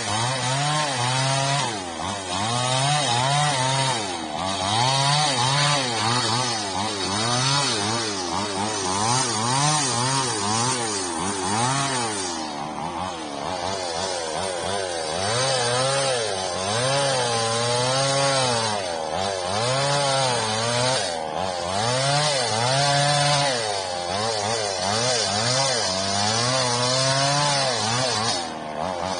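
Chainsaw engine running under load, its pitch rising and falling every second or two as it cuts old frond bases off an oil palm trunk.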